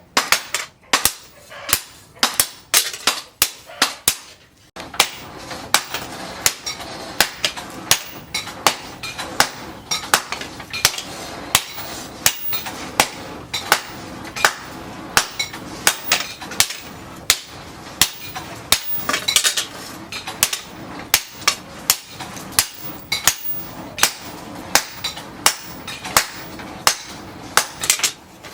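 Hammer blows on steel over an anvil, about two a second in a steady rhythm, each strike with a short metallic ring, as the disc-plough steel is forged into a machete blade.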